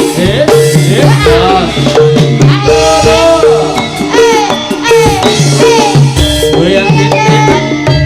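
Live Javanese jaranan (turonggo) music at full volume: drums and short repeated pitched notes under a wavering, bending melody.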